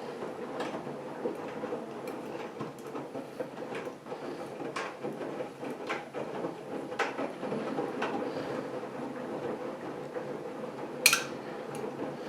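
AEG Lavamat washing machine running its first test wash: a steady motor hum with the drum turning and water sloshing, and scattered clicks, one sharper click about eleven seconds in.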